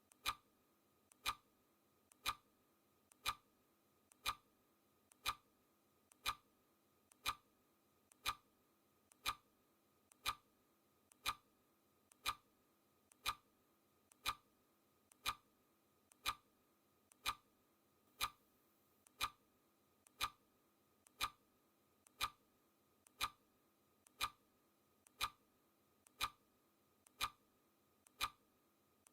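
Clock ticking sound effect: one sharp tick every second, each paired with a fainter click, in a steady even rhythm.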